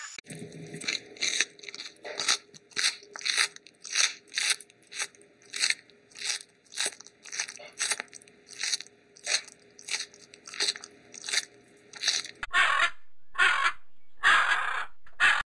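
Rhythmic crunching, about two crunches a second, like an animal chewing. About twelve seconds in it gives way to harsh, rasping calls about a second apart, which go with a toco toucan.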